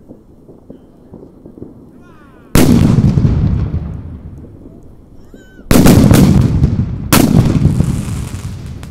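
Cobra 6 heavy firecrackers exploding: three very loud bangs, about two and a half, five and a half and seven seconds in, each followed by a long rolling echo.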